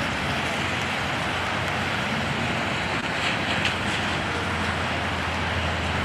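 Steady vehicle and traffic noise with a low engine hum underneath.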